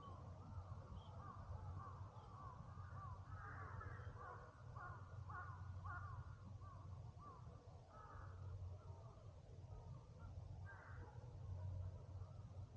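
Crows cawing faintly in a quick run of repeated calls, about two a second, thinning out near the end, over a steady low rumble.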